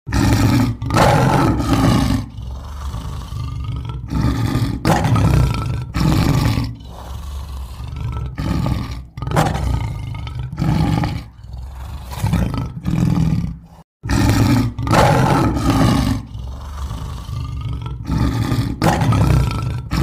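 Lion roaring: a long series of loud roars, about one a second, broken by a short silence about two-thirds of the way through.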